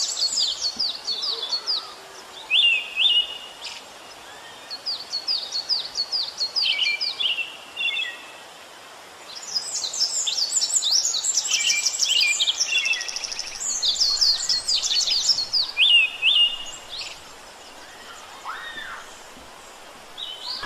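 Songbirds singing in repeated bouts of quick, high chirps and trills, with short pauses between phrases over a steady faint background hiss.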